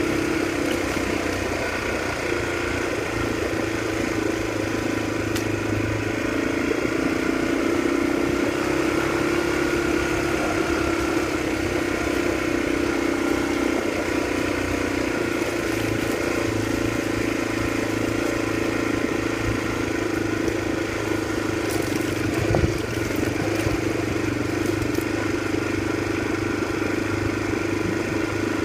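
Motorcycle engine running steadily while riding, with a single knock about three quarters of the way through.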